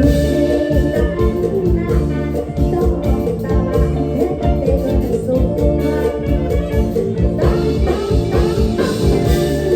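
Live Isan mor lam band music: a lively toei lam dance tune with a steady, fast drum beat under plucked and sustained instrument lines.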